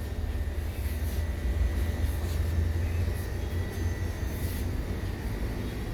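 A steady low rumble with a faint, thin, steady whine above it and a few soft ticks.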